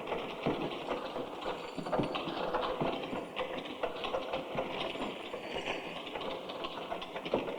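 Steady, dense mechanical clattering and clanking: many irregular knocks and clicks with no clear rhythm.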